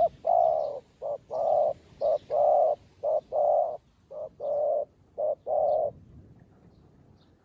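Zebra dove cooing: six pairs of a short coo followed by a longer coo in a steady rhythm, stopping about six seconds in.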